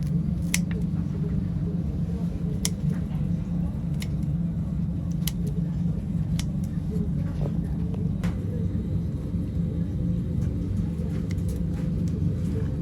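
A steady low mechanical hum, with scattered sharp clicks and taps over it.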